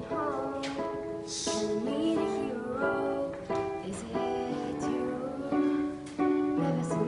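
A girl singing a slow pop ballad, accompanied by a strummed string instrument.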